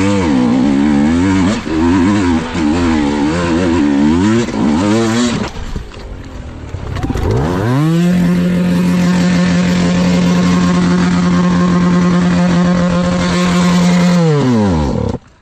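New enduro dirt bike's engine being run in: revved up and down repeatedly for about five seconds, then, after a lull, revved to a high steady pitch and held there for about seven seconds before dropping back. The sound cuts off suddenly near the end.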